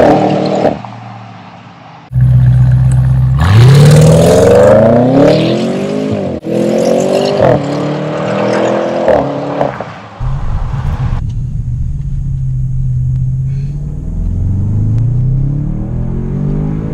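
Audi RS6 C8's twin-turbo V8 through a Tubi Style valved exhaust: several free revs that rise and fall, then a deep steady idle with a few light blips near the end.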